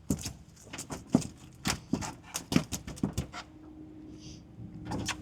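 Irregular slaps and knocks, two or three a second, from a small jack crevalle thrashing on the hook as it is landed. They stop about three and a half seconds in.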